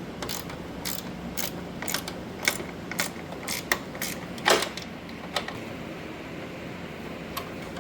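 Irregular metallic clicks and taps from hand tools on a lawn tractor's gas tank mounting as it is being taken loose, about two a second at first, then thinning out after about five seconds, over a steady low hum.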